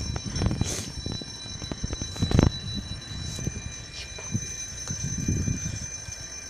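Passing train, its wheels clicking and knocking irregularly over the rails, with a steady high-pitched ringing throughout.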